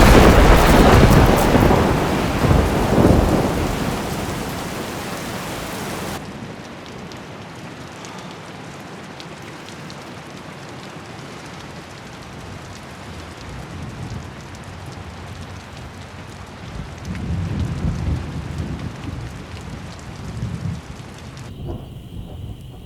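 A thunderstorm with heavy rain: a sudden loud thunderclap that fades out over several seconds. About six seconds in the bright hiss drops away abruptly, leaving steadier, duller rain, and low thunder rumbles roll in again near the end.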